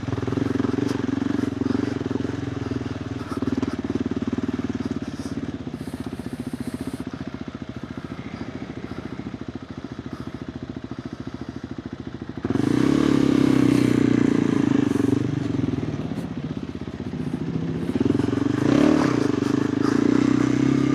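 KTM 390 Adventure R's single-cylinder engine running through a Norifumi Whoops stainless slip-on exhaust while being ridden, pulsing at low revs. The throttle opens sharply about twelve seconds in, eases off, then opens again near the end with the revs rising.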